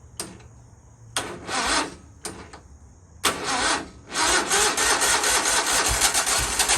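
Sawmill engine being cranked by its battery starter in several short bursts, then catching about four seconds in and running on. It is a first start after sitting unused for months, on a battery that may be weak.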